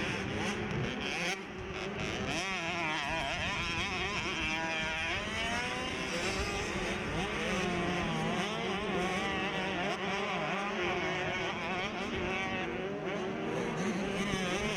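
Several 65cc two-stroke motocross bikes racing, their engines revving up and down with pitch rising and falling over one another as riders shift and work the throttle.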